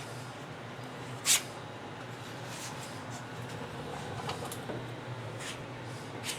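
A few short scrapes of a plastic spreader working body filler onto a car fender, over a low steady shop hum; the sharpest scrape comes about a second in.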